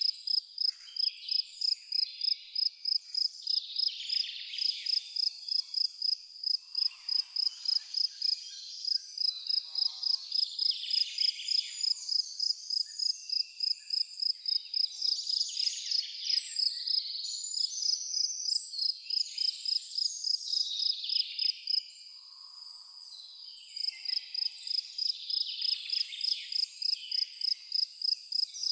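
An insect chirping in a steady, high-pitched rhythm of about three chirps a second, pausing briefly twice, with birds calling and twittering over it.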